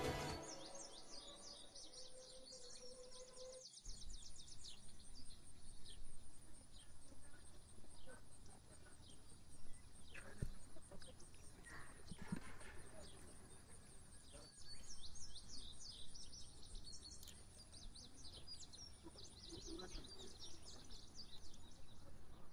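Birds chirping and singing in quick repeated notes, over a steady high-pitched buzz, with a couple of faint knocks in the middle.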